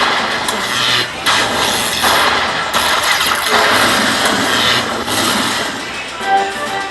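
Video slot machine sound effects: a run of about five rushing, rattling noise bursts, each about a second long, as the reels spin, then the machine's tune with a melody starting near the end.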